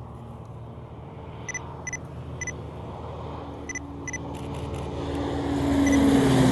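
A World War II-era piston-engined warbird approaching on landing: its engine hum grows steadily louder and drops in pitch as it passes close near the end. Several short camera shutter clicks sound in the first half.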